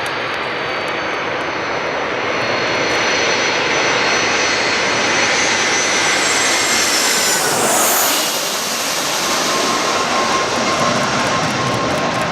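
Jet airliner passing low overhead: the engine noise builds to its loudest about eight seconds in as the plane goes over, with a high whine falling in pitch, then stays loud as it moves away.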